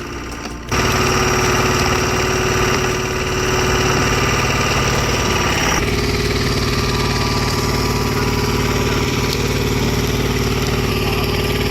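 Engine of a wood-splitting machine running steadily. It gets suddenly louder about a second in, and its tone changes around six seconds in.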